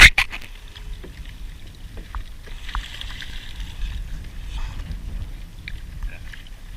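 A sharp clatter of knocks right at the start, then scattered light clicks and scrapes of crabs and crab-pot gear being handled aboard a kayak, over a steady low rumble.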